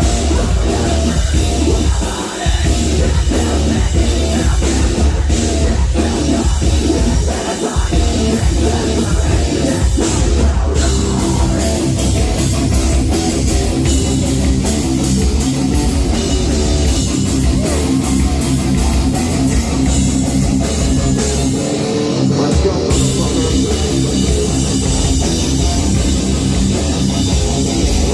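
Live metal band playing loud through a venue PA: distorted guitars, bass and pounding drums, with two brief breaks in the low end early on.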